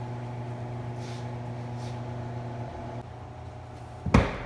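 A steady low machine hum that drops away about three seconds in, followed near the end by a single sharp, loud knock.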